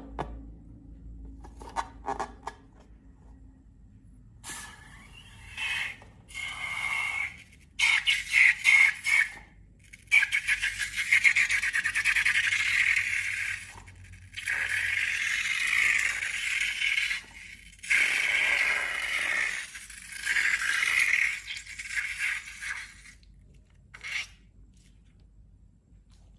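Slime being worked and scraped by hand, making a crackly scraping sound in several bursts of one to a few seconds, with short quiet gaps between them.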